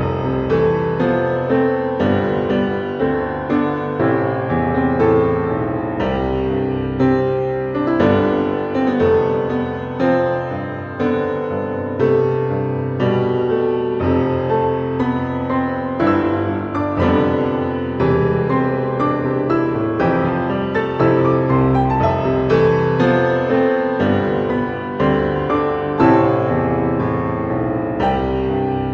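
Background music: piano playing a steady stream of notes.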